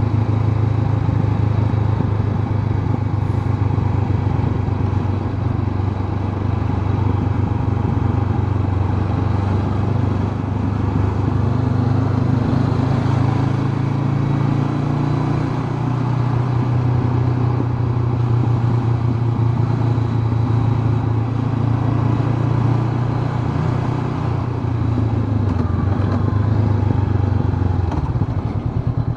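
Honda CB500X's parallel-twin engine running under way at a steady pace. The low engine note shifts slightly in pitch a few times and eases briefly near the end.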